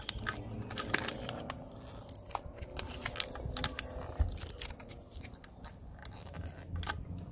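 A stubborn fitting being tugged and worked at by hand in the engine bay of a car with its engine off: irregular clicks, crunches and scrapes as the part resists coming off.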